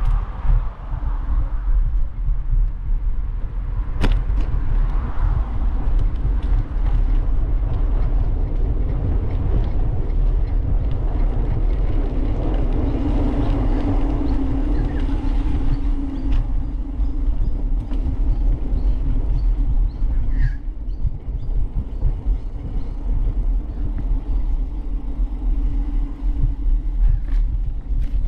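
Wind rumbling over the microphone of a bike-mounted camera while riding, with a steadier hum swelling in about twelve seconds in and fading by about sixteen seconds. A single sharp click about four seconds in.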